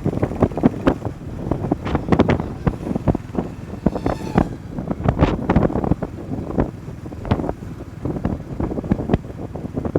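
Wind buffeting the microphone on a moving motorcycle, gusty and uneven, over the vehicle's running noise.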